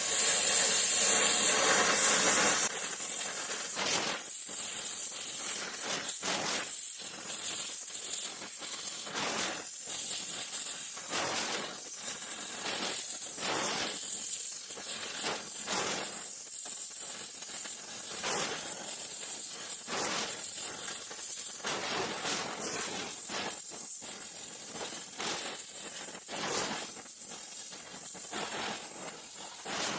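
Gas welding torch flame hissing while puddle-welding a cast iron exhaust manifold, loud for the first couple of seconds and then lower, with irregular crackles and pops throughout.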